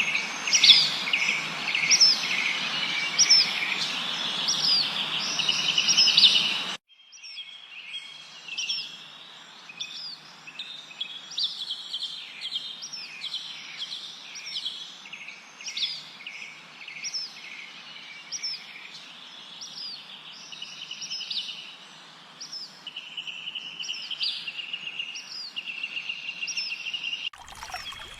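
Songbirds chirping and trilling: many short, quick, high notes repeated one after another over a steady hiss. About seven seconds in, the hiss drops away suddenly and the chirping goes on more softly.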